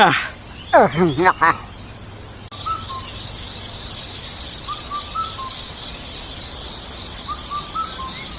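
A man's drawn-out, sliding vocal sounds in the first second and a half, then from about two and a half seconds a steady high insect trilling, like crickets, with short bird chirps now and then: a morning countryside ambience.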